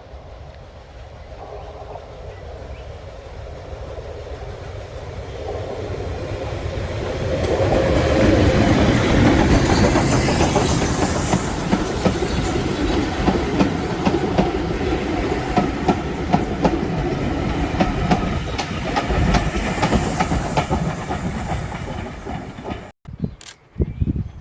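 A train passing close by: it grows louder over about eight seconds, then the coaches run past with wheels clicking over the rail joints. The sound cuts off abruptly near the end.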